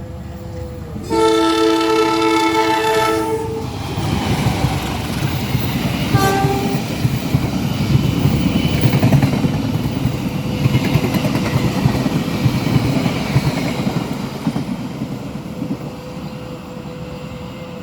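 Diesel locomotive horn sounding one long chord blast, followed a few seconds later by a brief toot. Then a train rolls past with its engine rumbling and its wheels clattering over the rail joints, fading toward the end.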